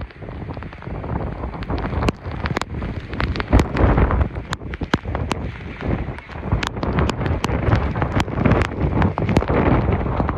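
Strong, gusting storm wind buffeting the microphone, rising in loudness in the first second, with many sharp ticks and taps throughout.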